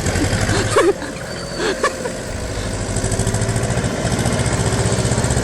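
Tractor engine running with a steady, even pulse, getting louder from about halfway through. A person's voice calls out briefly twice near the start.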